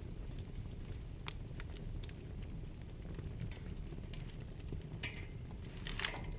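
Wood fire burning in a fireplace: a steady low rumble of flames with irregular sharp crackles and pops, a burst of louder crackling about five seconds in and again near the end.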